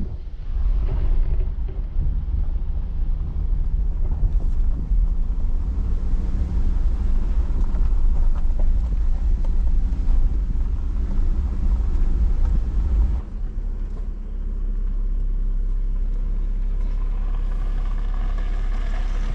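Jeep driving over a rough, washed-out dirt road: engine and tyres rumbling with jolts and rattles, then about thirteen seconds in the sound settles to a steady, even engine hum.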